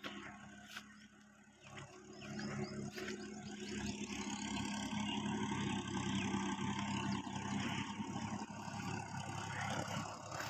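Universal 533 tractor's diesel engine running steadily under load while pulling a cultivator to puddle a paddy field, growing louder about two seconds in as it comes nearer.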